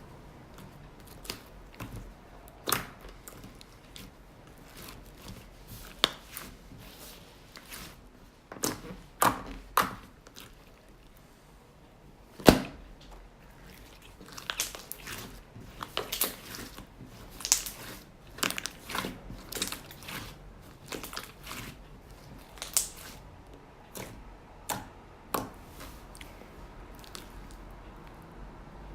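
Irregular clicks and taps, some sharp and loud, scattered at uneven intervals over a quiet background in a small room.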